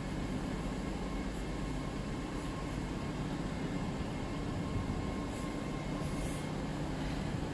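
LNER Azuma (Hitachi Class 800-series) passenger train moving along a far platform, a steady low rumble with a faint high whine that fades out during the second half.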